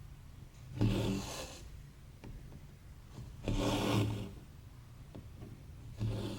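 Embroidery thread being pulled through 14-count cross-stitch fabric, a short rasping pull about every two and a half seconds, three times.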